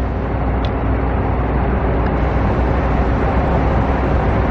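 Steady outdoor rumble, heaviest in the low end, with an even hiss over it and no distinct events.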